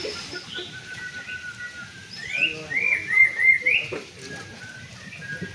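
White-rumped shama (murai batu) singing: thin whistled notes, then a run of four or five quick rising notes about halfway through.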